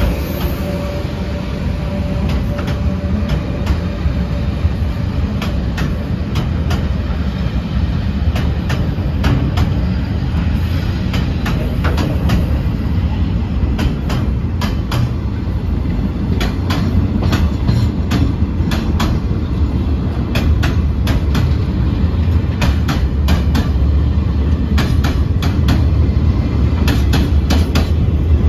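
Freight train pulling out of a station: a low rumble with wheels clicking over rail joints, the clicks growing more frequent and the rumble slightly louder as it gathers speed. A faint steady tone is heard in the first few seconds and fades away.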